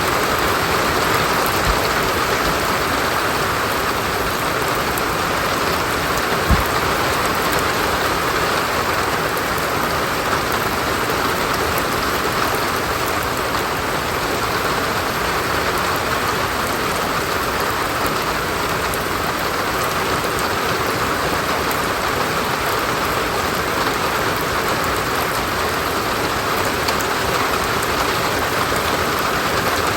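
Steady rain falling and pattering on surfaces, an even hiss. A single short low knock sounds about six and a half seconds in.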